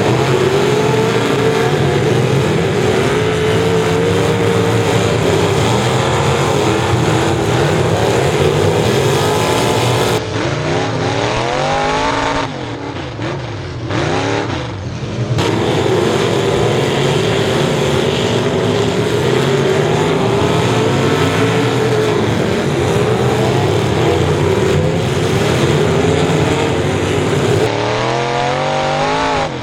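Race car engines running hard at high revs, several engine notes overlapping. A few seconds into the middle, the pitch sweeps up and down repeatedly as the cars lift off and accelerate again.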